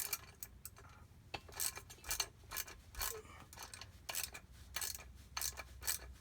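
Irregular metal clicks and clinks of hand tools and jet-pump parts, two or three a second, as the bolts on the pump's rear cone are worked loose.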